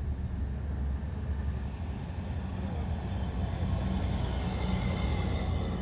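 Heavy military vehicles passing in a parade column, their engines giving a deep steady rumble. A high whine grows louder from about halfway through as a vehicle comes closer.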